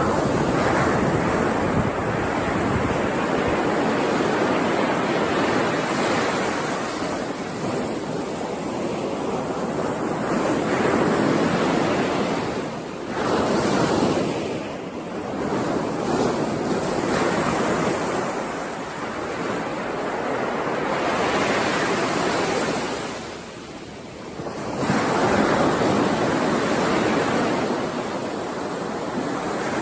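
Ocean waves washing onto a shore: a continuous rush that swells and eases, with a few short lulls between surges.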